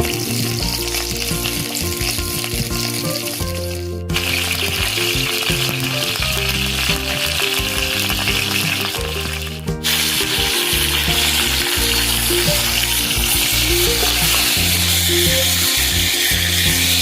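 Venison sizzling as it is seared in a cast-iron Dutch oven, a steady hiss under background music. The sizzle jumps louder at abrupt cuts about 4 and 10 seconds in.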